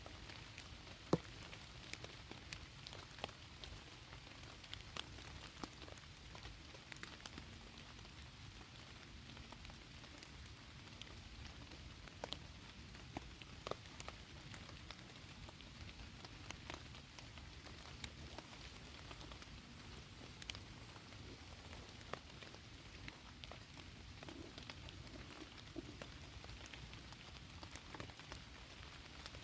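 Steady rain falling, with scattered sharp taps of single drops at irregular intervals.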